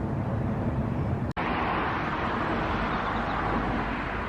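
Steady low background hum that cuts off abruptly about a second in, followed by a steady wash of road traffic noise.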